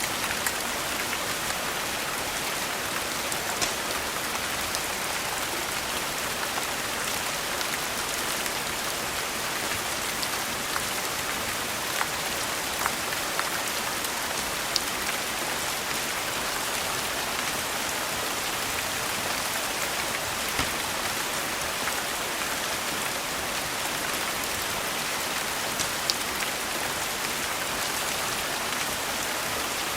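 Steady rain falling in an even hiss, with a few scattered sharp ticks.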